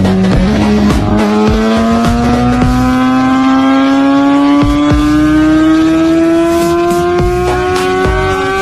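Motorcycle engine accelerating hard in one gear, its pitch rising slowly and steadily throughout.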